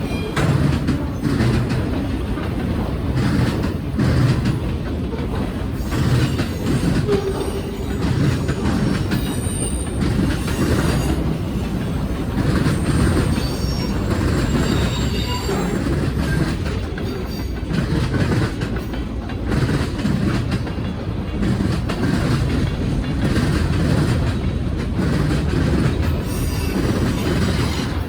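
Freight train cars rolling past at close range: a steady rumble of steel wheels on rail with repeated clicking over rail joints, and a few brief high-pitched wheel squeals between about ten and sixteen seconds in.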